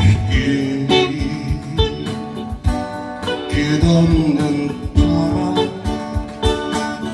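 Live acoustic guitar strumming an intro to a folk song, with a steady low beat underneath.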